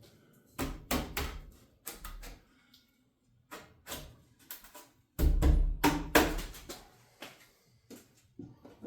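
Irregular knocks and clunks of wall-building work, with a heavy thump about five seconds in.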